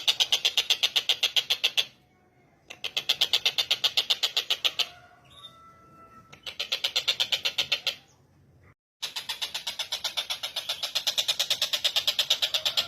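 Tengkek buto (collared kingfisher) calling a rapid, harsh chattering series of about ten notes a second, in four long runs broken by short pauses. Faint thin whistled notes of another bird come in one pause, about five seconds in.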